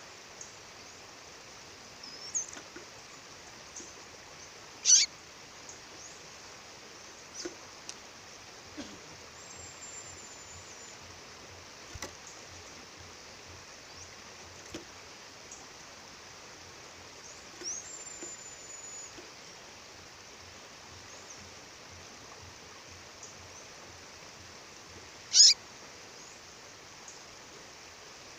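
A female bird calling over the steady rush of a waterfall: two loud, sharp calls that fall steeply in pitch, about twenty seconds apart, with a few faint, thin high whistles between them.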